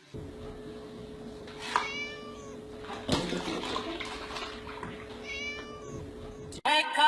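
A cat meowing twice, once about two seconds in and again about five seconds in, over a steady low hum, with a short rush of noise between the two calls.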